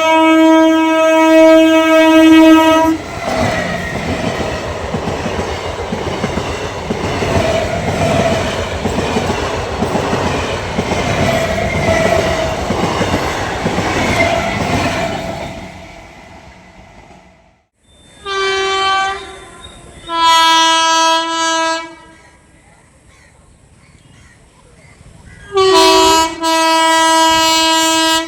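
A train horn blowing one long steady note, then the train running past at speed with a loud rumble and the clickety-clack of wheels over rail joints, fading away. Then another train's horn sounds in separate blasts: two of a second or two each, then a short one and a longer one near the end.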